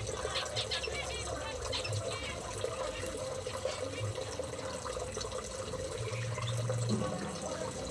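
Small aviary birds chirping in short quick calls, thickest in the first two seconds, over a steady rushing background and a low hum.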